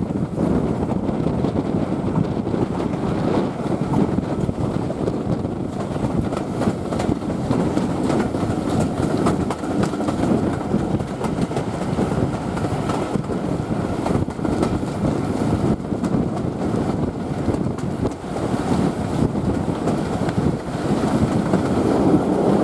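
Steady running noise of a heritage steam-hauled passenger train, heard from on board: wheels rolling on the rails.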